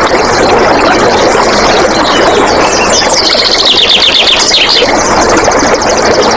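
Steady rush of flowing water with wild birds calling over it: a fast run of chirps, falling slightly in pitch, from about three to five seconds in, then a very high rapid trill near the end.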